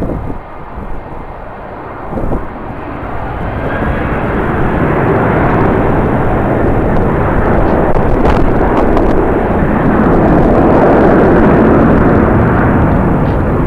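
Jet airliner passing, its engine noise swelling over several seconds to a steady loud peak, with strong wind buffeting the microphone.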